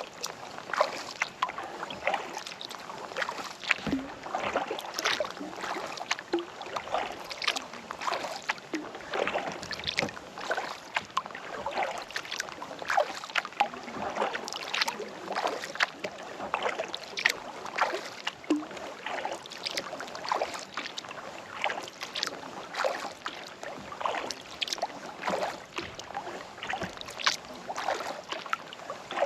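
Kayak paddle blades dipping into and pulling through calm lake water, with a continuous run of splashes and drips off the blades.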